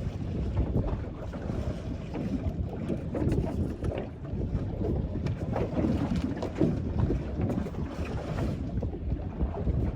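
Wind buffeting the microphone in gusts, over water moving against the hull of a small boat rocking in choppy water.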